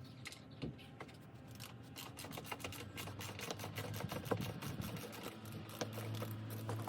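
Ratchet wrench clicking in quick runs of small ticks as it undoes the bolts holding the undertray on a car.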